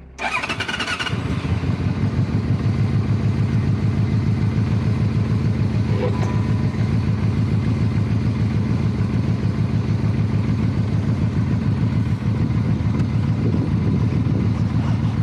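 Motorcycle engine starting up, then running steadily with an even, fast pulse.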